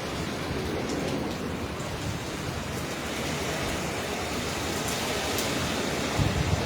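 Hurricane rain and wind: a steady rushing hiss, with a brief low rumble swelling near the end.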